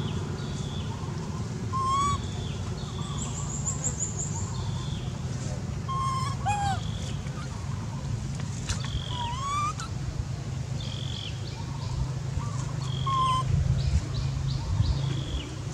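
Wild birds calling: short chirps repeated every second or two, some brief rising whistles, and a quick high trill a few seconds in, over a steady low hum.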